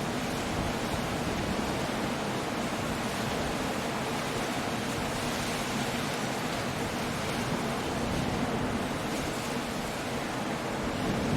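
Steady, even roar of a coastal storm: surf and rain blended into a continuous wash of noise, with no distinct crashes or claps.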